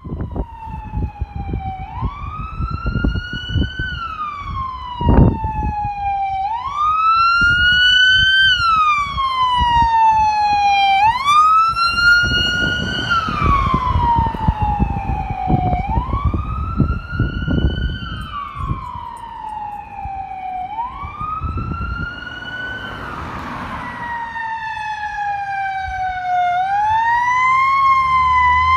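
Emergency vehicle siren on wail, each cycle rising quickly and then falling slowly, about every four to five seconds, over an uneven low rumble. There is a sharp knock about five seconds in, and near the end a heavy engine's hum grows louder as the siren keeps wailing.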